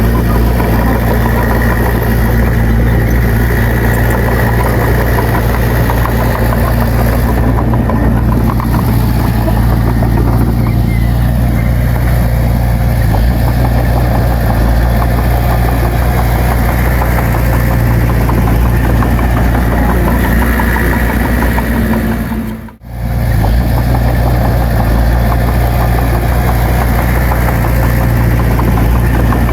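Heavy earthmoving machine's diesel engine running steadily and loud, with a deep steady drone. About 23 seconds in the sound drops out sharply for a moment, then comes straight back.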